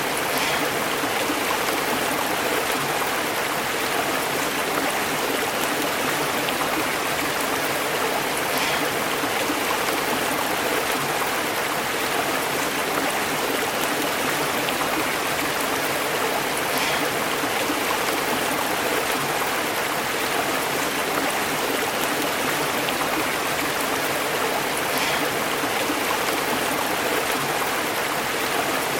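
Stream burbling over rocks: a steady, unbroken rush of running water.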